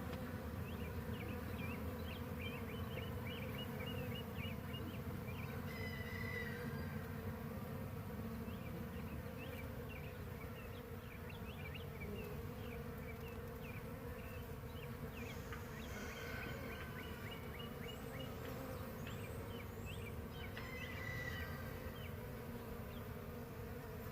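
Honey bees of a newly hived swarm buzzing around their hive, a steady low hum, with scattered faint high chirps over it.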